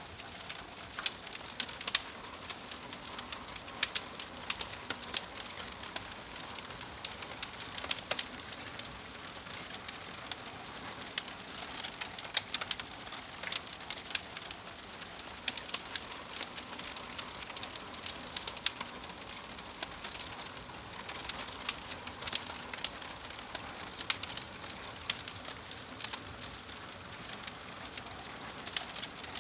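Crackling fire, a steady hiss with frequent irregular sharp pops and snaps.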